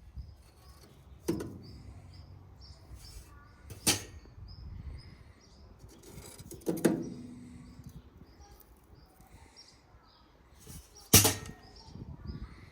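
Sharp knocks and clatters of cooking gear being handled and set down, four loud ones spread out with quieter rustling between. Behind them a bird repeats a short high chirp about twice a second.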